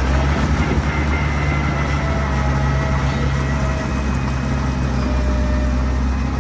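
Mini bulldozer's engine running steadily with a continuous low drone, and faint high whining tones above it.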